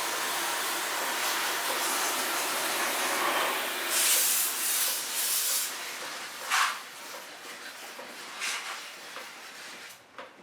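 High-pressure water jet spraying into a split air conditioner unit to wash the dust out: a steady hiss, with louder spurts about four seconds in and again a few seconds later, then dying away toward the end.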